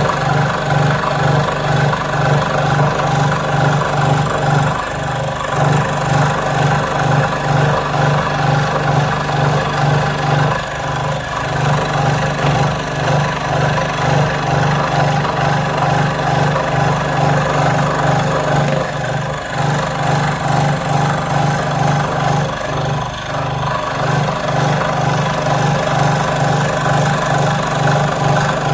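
An electric power-tool motor running steadily with a pulsing hum, dipping briefly a few times.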